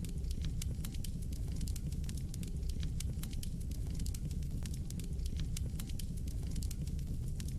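Wood fire burning in a fireplace: constant irregular crackling and snapping of the burning logs over a steady low rumble of the flames.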